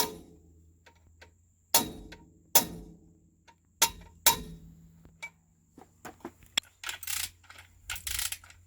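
Hammer striking metal five times, each blow ringing briefly, then a quicker clatter of metal on metal near the end: a new oil seal being driven into an excavator's housing, which will not seat on one side.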